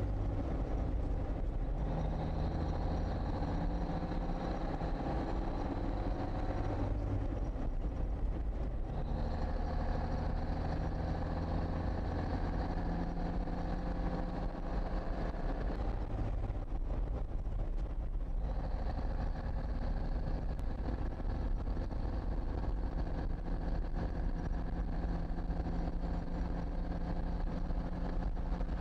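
Cummins 220 six-cylinder diesel in a 1954 Kenworth tractor running under load while driving, with a high gear whine over it. Twice, about seven and sixteen seconds in, the engine note drops out for a couple of seconds and then picks up again at a new pitch, as the ten-speed Road Ranger transmission is shifted.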